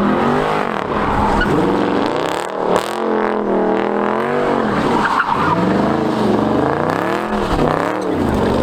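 A car engine revved hard and let fall several times in a row, with tyre squeal under it, as in a burnout at a car meet.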